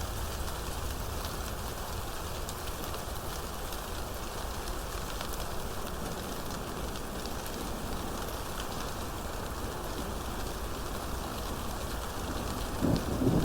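Steady rain falling, an even hiss. Near the end a louder, low-pitched sound cuts in over it.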